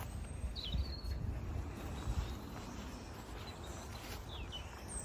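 Small birds chirping and twittering in short scattered calls over a steady low outdoor rumble.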